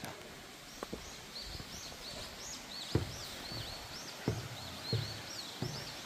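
A small songbird singing a quick run of short, high whistled notes that sweep up and down, over the steady rush of a valley stream. Footsteps thud at a walking pace.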